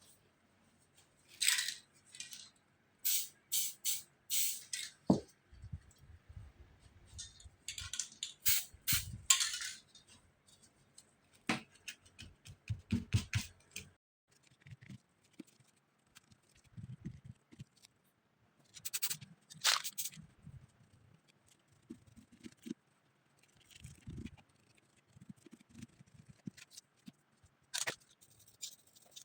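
Short hissing bursts of aerosol spray paint, several in quick succession in groups, with scraping and soft knocks of tools and paper in between.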